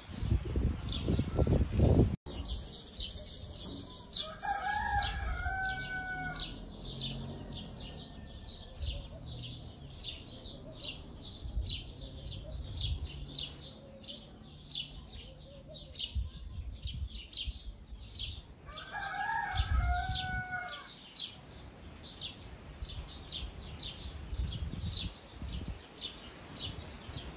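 Birds: two longer, wavering calls, a few seconds in and again about two-thirds of the way through, over a steady run of short high chirps, two or three a second.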